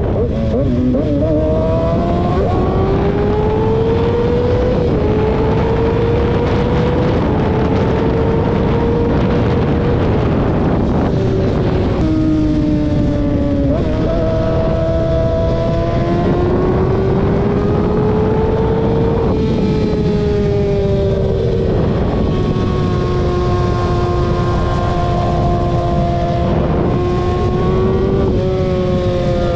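Motor vehicle engine running continuously, its pitch drifting slowly up and down with a few sudden shifts.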